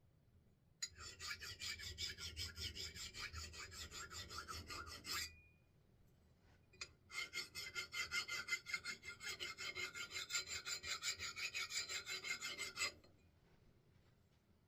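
A hand file rasping in quick, even strokes along the steel edge of an axe head as the bit is sharpened. There are two runs of about five strokes a second, with a short pause between them.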